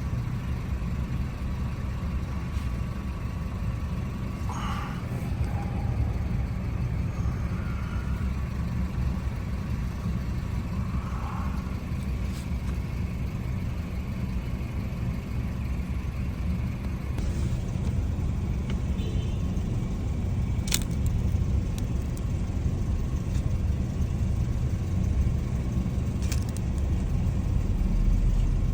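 Steady low rumble, with a few faint short chirps in the first half and two sharp clicks in the later half.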